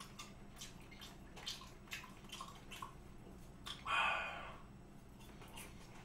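Close-up mouth sounds of chewing raw beef: soft wet smacks and clicks every fraction of a second, with one louder wet mouth noise lasting just under a second about four seconds in, as the next bite of yukhoe goes in.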